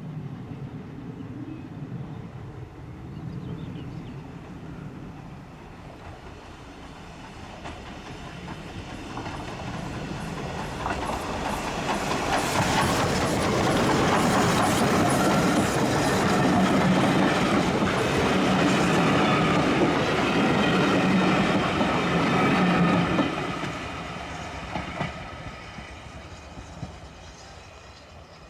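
Ivatt Class 2 2-6-2T steam tank engine and its carriages passing by. The sound builds for several seconds and stays loud for about ten, with wheels clicking over the rail joints, then fades away over the last few seconds.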